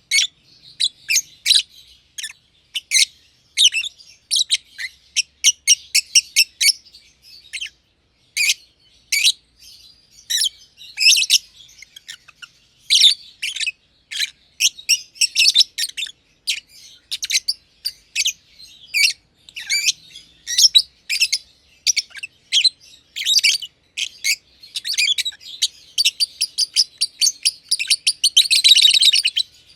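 Masked lovebirds chirping in quick, high-pitched calls one after another, building to a dense run of chatter near the end.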